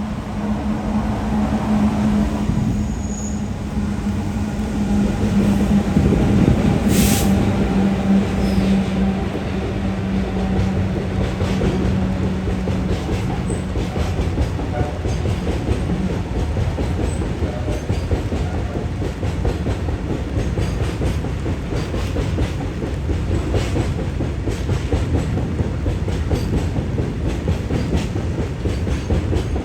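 The Lingampalli–Indore Humsafar Express passenger train passing, its wheels clacking over the rail joints. A steady low hum runs through the first half, with one sharp clank a few seconds in, and regular clicks from the coaches' wheels fill the second half.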